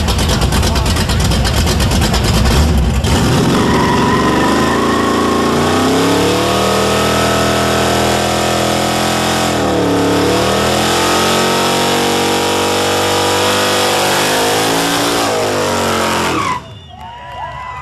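Muscle car engine revved high and held for a long burnout: rough and pulsing at first, then a steady high-rev note that dips briefly about ten seconds in and recovers, cutting off suddenly near the end.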